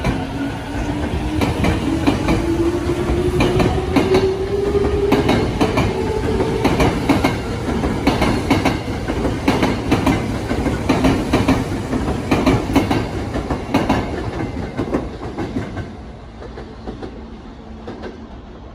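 Electric commuter train on the Tokyo Metro Tozai Line accelerating away, its motor whine rising in pitch while the wheels clack steadily over the rail joints. The sound fades about three-quarters of the way through as the train draws off.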